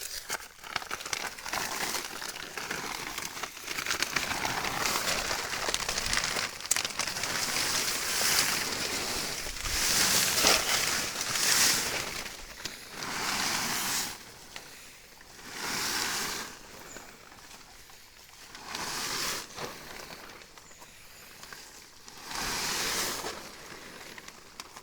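Plastic silage tarp being pulled back off a silo, rustling and crinkling in a series of separate tugs.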